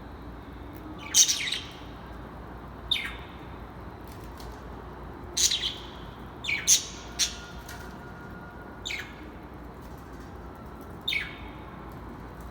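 Birds giving short, sharp chirps, scattered irregularly about eight times, over a steady background hiss.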